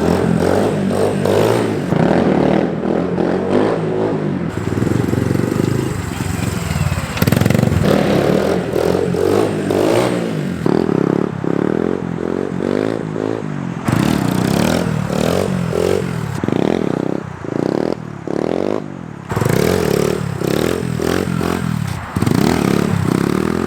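SSR 150 dirt bike's single-cylinder four-stroke engine revving up and dropping back over and over as the rider pops short wheelies, with abrupt changes in loudness along the way.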